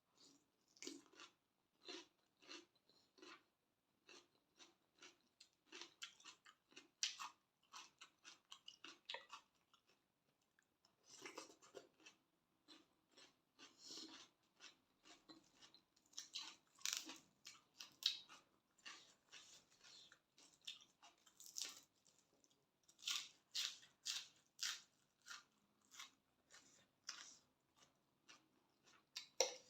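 Faint, irregular chewing and mouth sounds of a person eating a spicy Thai glass noodle salad with squid: soft smacks and crunches coming in quick clusters with short pauses.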